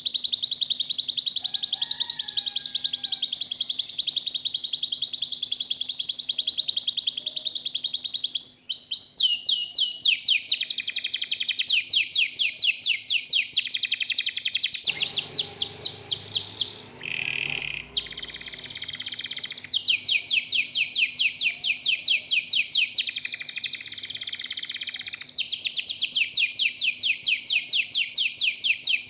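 Local canary singing fast, high-pitched trills: one unbroken roll for about the first eight seconds, then a string of rolls broken by short pauses, with a lower note near the middle.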